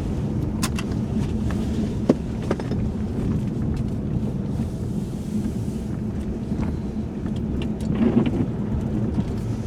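Cabin noise of a 1995 Chevrolet Monte Carlo driving slowly on a wet, snowy road: steady engine and tyre rumble, with a few sharp clicks in the first few seconds.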